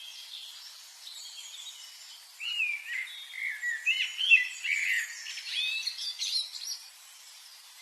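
Birds chirping and singing in quick high notes, with short rising and falling sweeps. The calls are faint at first, then louder and denser from about two and a half seconds in until about seven seconds.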